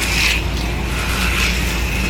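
HO slot cars' small electric motors whining as they run around the track over a steady low hum. The whine swells as a car passes about a quarter second in and again near one and a half seconds.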